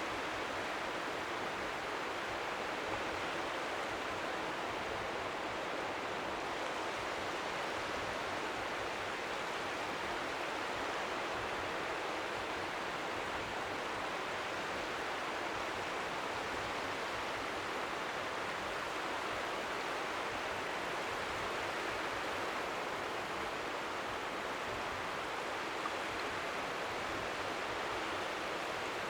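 Steady, even rush of strong wind by the sea, with faint waves lapping at the shore beneath it.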